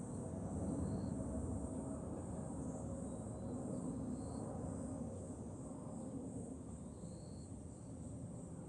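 A chorus of summer cicadas buzzing steadily and high, with wind rumbling on the microphone underneath. A few short, faint high tones come through about a second in, around four seconds and around seven seconds.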